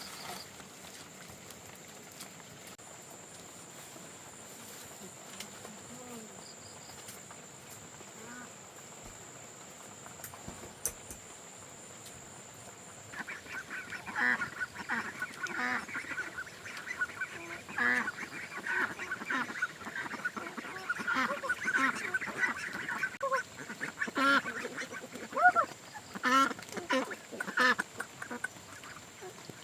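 Flock of domestic ducks calling: after a quiet stretch, a busy run of short, repeated quacks starts about halfway through and continues, rising and falling in loudness.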